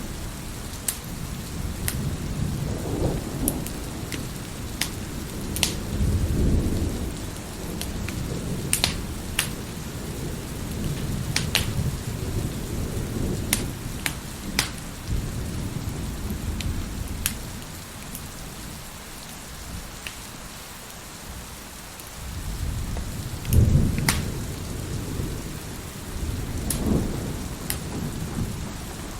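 Wood fire crackling in a fireplace, with sharp scattered pops, over steady heavy rain and repeated low rolls of thunder. The loudest thunder roll comes about three-quarters of the way through.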